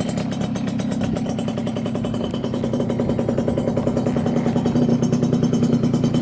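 Yamaha Champ RS 50cc two-stroke scooter engine with a long expansion-chamber exhaust, running at a steady fast idle after the revs drop, with the note and level creeping up slightly toward the end. It runs evenly with no abnormal noises.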